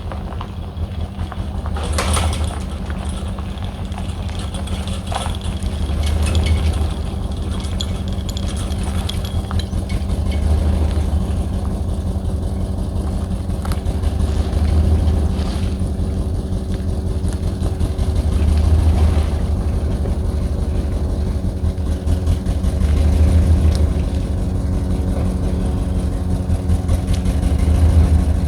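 An engine idling steadily, its low rumble swelling and easing about every four seconds.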